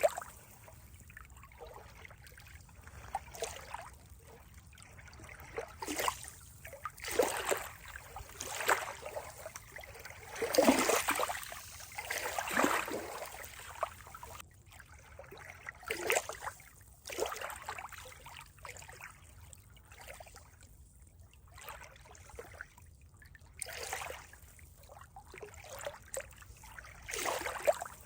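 Water trickling and splashing in irregular bursts, with quieter gaps between them and a longer, louder run about ten to thirteen seconds in.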